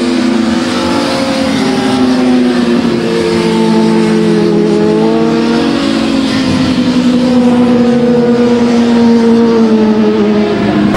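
Several motorcycle racing engines held at high revs, their pitches drifting slowly up and down against each other.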